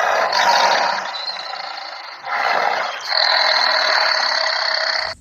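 Tiger roar sound effect: two long, noisy roars, the second starting a little over two seconds in.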